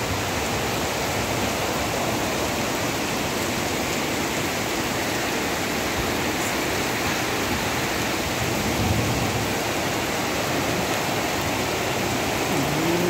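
Heavy rain pouring down steadily onto a wet paved street, an even, dense hiss of downpour.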